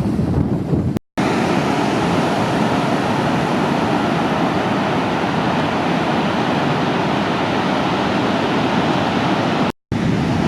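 Steady rush of typhoon-swell surf breaking on the beach, wind buffeting the microphone for about the first second and again near the end. Two brief dropouts where the audio cuts.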